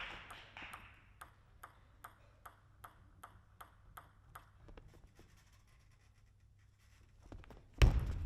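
Celluloid-type table tennis ball clicking in a steady series of light ticks, about two and a half a second, fading and stopping after about five seconds. Near the end comes a sudden loud burst of noise from the hall.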